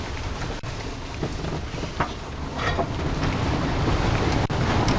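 Four-wheel-drive vehicle fording a river: rushing, splashing water against the vehicle over the engine, getting louder from about two seconds in, with a few sharp knocks.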